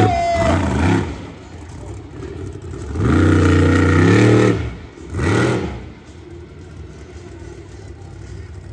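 Monster truck engine revving hard in bursts: a rising rev at the start, a long held rev about three seconds in, and another short rev about five seconds in, then easing off to a lower level.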